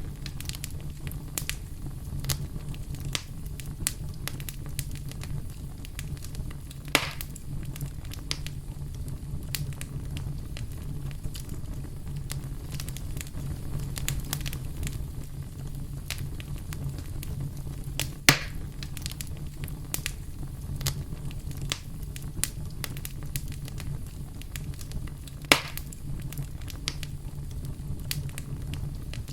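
Campfire burning: steady crackling of burning wood over a low rumble of flame, with three louder pops from the wood spread through.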